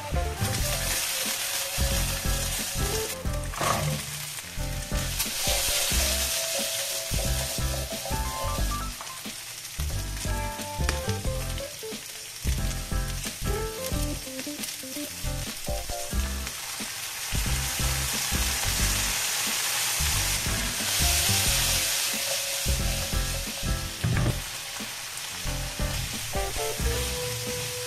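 Chicken pieces and onion sizzling in hot oil in a nonstick frying pan while a spatula stirs them. The sizzle swells louder twice, about five seconds in and again around twenty seconds in.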